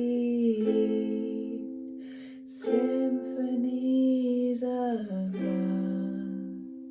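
Ukulele played in a few slow closing chords under a held sung note. The last chord is left to ring and fades away.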